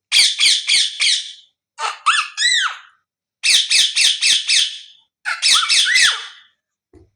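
Parrot calling in loud runs of harsh squawks, about three a second, alternating with whistled notes that rise and fall in pitch.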